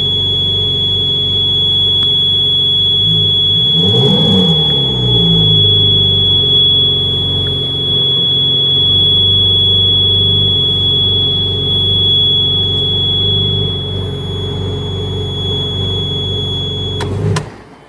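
Ferrari 458 Spider's V8 idling, with one brief rev about four seconds in, under a steady high-pitched electrical buzz from the centre console by the roof switch, with no warning lights showing. The engine and the buzz both cut off near the end.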